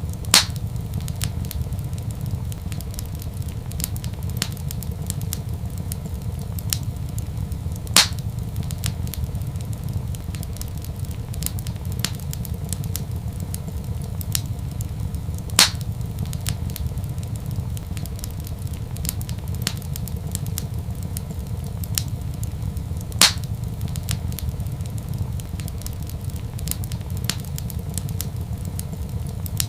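Wood fire crackling in a fireplace: many small snaps over a steady low rumble, with a louder pop four times, about every seven and a half seconds.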